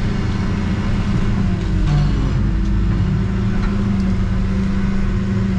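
Backhoe's diesel engine running steadily, heard from inside the cab, with a few faint gliding whines partway through.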